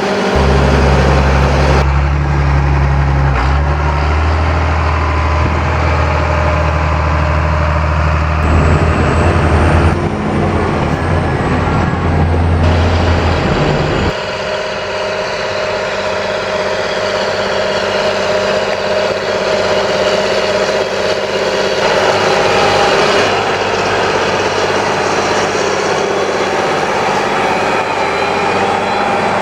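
Large John Deere farm tractors' diesel engines running, in short clips that cut abruptly several times. A deep, steady engine note gives way after about fourteen seconds to a lighter, higher engine sound.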